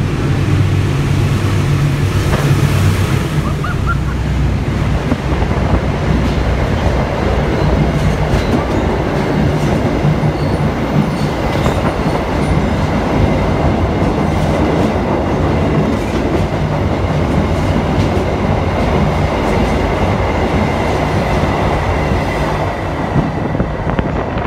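Diesel locomotive passing close by inside a railway tunnel, its engine note strong for the first few seconds, then the passenger carriages rolling past with a steady rumble and wheel clatter.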